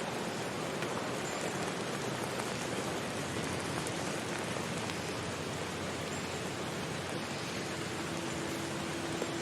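Steady, even hiss of water, the dense noise of rain or falling water, with no breaks. A faint steady low tone joins in for the last couple of seconds.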